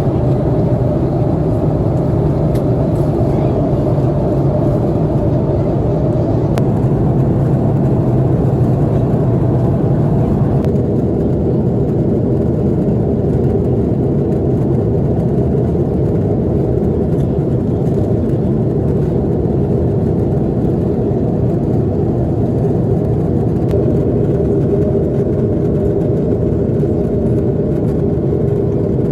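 Steady drone of jet engines and airflow inside the cabin of an Airbus A330-300 airliner. The higher hiss drops slightly about ten seconds in.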